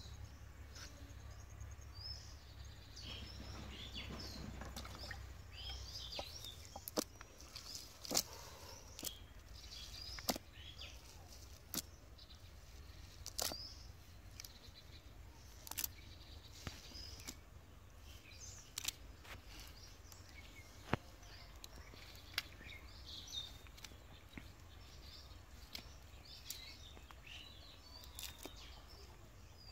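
Small birds chirping on and off, over a faint low rumble, with about ten sharp clicks scattered through as the loudest sounds.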